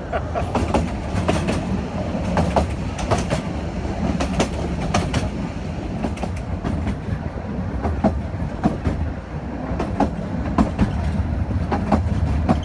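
Passenger carriage of a steam-hauled heritage train running along the track: a steady low rumble with irregular clicks and knocks from the wheels over the rail joints.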